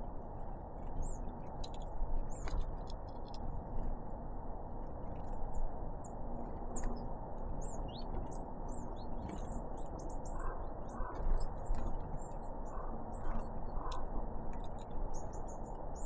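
Great tits and blue tits giving many short, high chirps and call notes, with scattered sharp clicks among them, over a steady low background noise.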